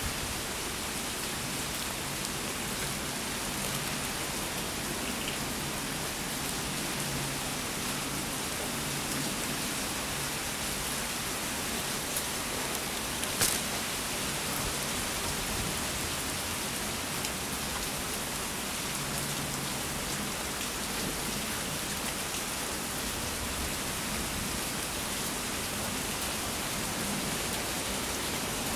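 Steady rain falling and pattering on surfaces, with one sharp tap about halfway through.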